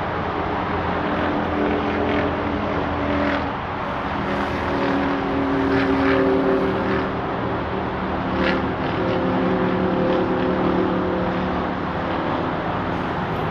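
A motor vehicle engine droning steadily, its pitch drifting slowly up and down.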